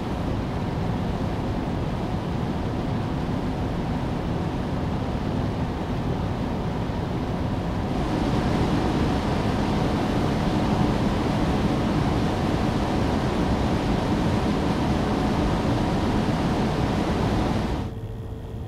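Computer cooler fans running steadily with an even rushing hum, which steps up louder about eight seconds in and drops to a much quieter level near the end, leaving a faint steady tone.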